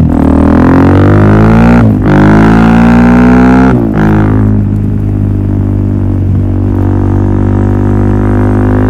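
Suzuki DR-Z400SM's single-cylinder four-stroke engine through a full Yoshimura exhaust system, accelerating hard with its pitch climbing. It shifts up about two seconds in and again near four seconds in, then holds a steadier engine speed.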